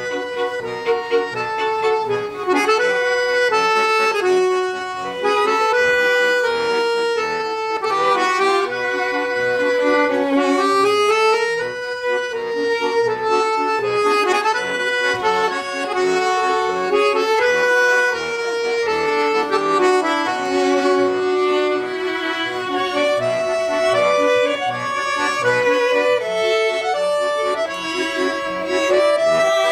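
Accordion music: a sustained, moving melody over a regular pulsing bass accompaniment.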